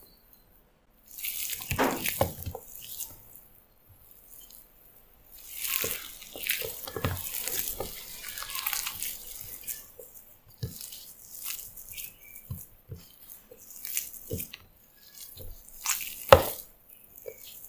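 Water running and splashing in two spells, then a series of light knocks and clicks, with one sharper knock near the end.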